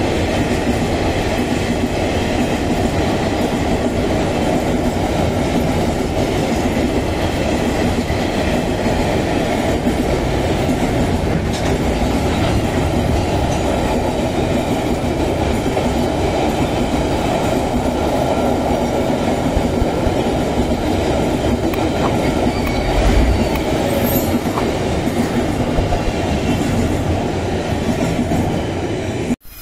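Freight train rolling past, a steady loud rumble of wagon wheels on the rails with some clatter, which breaks off abruptly near the end.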